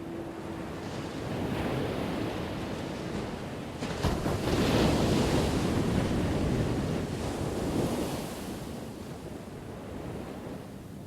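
Ocean waves breaking on a shore. The surf swells, then a wave crashes about four seconds in and washes loudly for several seconds before subsiding.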